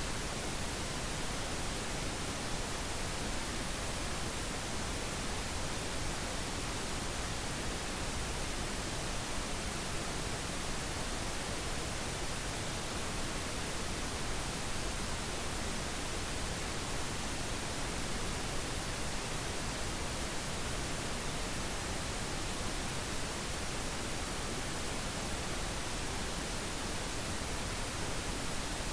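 Steady synthetic pink noise: an even, unbroken hiss across the whole range, with no changes or events.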